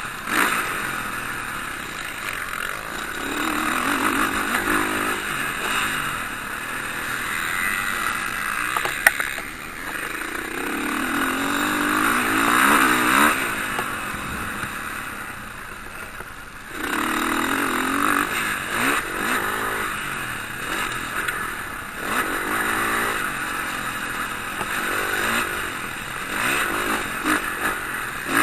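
Motocross bikes racing, their engines revving up and down as riders accelerate and pass, the sound swelling and fading in several waves. A single sharp click about nine seconds in.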